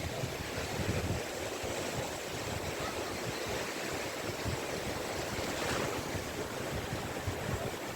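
Sea waves breaking and washing on a beach: a steady surf noise with a low rumble that swells and eases.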